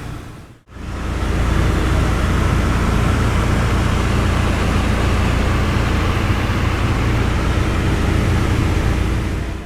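Douglas DC-3's twin radial piston engines droning steadily, heard inside the cabin as a loud, even low hum under a broad hiss. The sound drops out briefly about half a second in, then returns.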